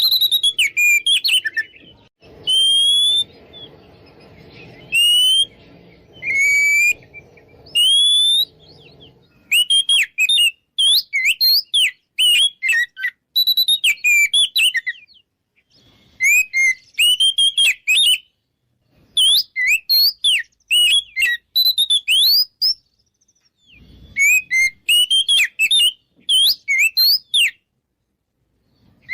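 Oriental magpie-robin (kacer) singing in full, continuous 'ngeplong' style: runs of loud, varied whistled and chattering phrases, broken by short pauses. This is the challenging territorial song used to lure rival males into answering. A faint low hum sits behind the first few seconds.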